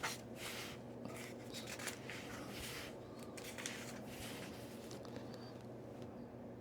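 Paper pages of a book being turned and rustled: a run of soft swishes over the first few seconds that thins out after, with a low steady hum underneath.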